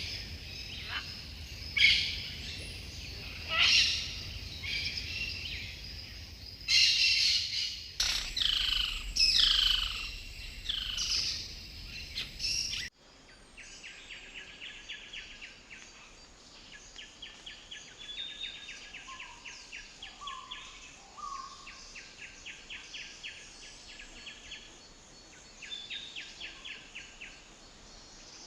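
Jungle birds calling: loud, sharp calls and several falling whistled slurs. About halfway through it cuts abruptly to a quieter chorus of rapid, evenly pulsed chirping trills with a few short low notes.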